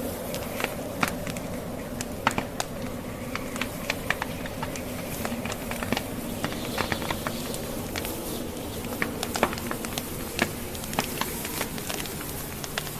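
Wood fire in a fireplace crackling, with frequent irregular sharp pops and snaps from the burning logs over a steady hiss.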